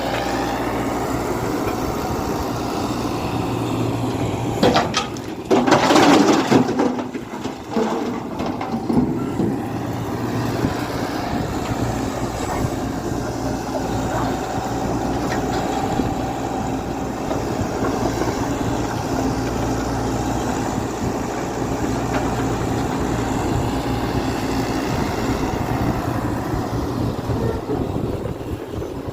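Diesel engine of a Tata Hitachi EX120 hydraulic excavator running steadily at a constant pitch. A short loud burst of noise comes about five seconds in, and a louder stretch runs from about six to seven seconds.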